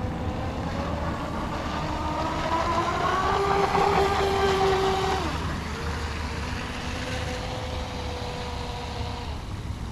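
Brushless electric RC speedboat motor whining as the boat runs on the water. The whine climbs in pitch and loudness to a peak about four seconds in, drops sharply just after five seconds as the throttle eases, then holds a steadier, lower tone.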